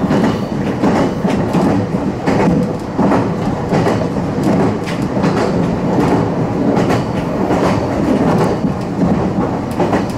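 Meitetsu commuter train running along the track, heard from inside the driver's cab: a steady rumble with repeated clicks as the wheels pass over rail joints.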